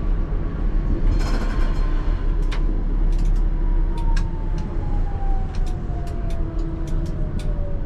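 ČKD Tatra T3R tram running on rails, heard from the driver's cab: the motor whine falls steadily in pitch as the tram slows. Sharp clicks of the wheels over rail joints come throughout, and a brief high screech is heard about a second in.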